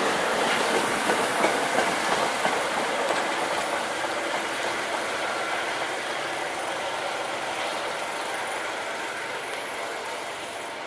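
MBTA commuter rail train rolling past and pulling away: steady wheel-on-rail noise with a few sharp clacks in the first couple of seconds, fading steadily as the trailing cab car recedes.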